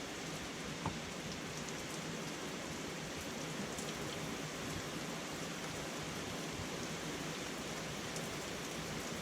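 A steady, even hiss with no pitch, like rain or a fan, and one light click about a second in.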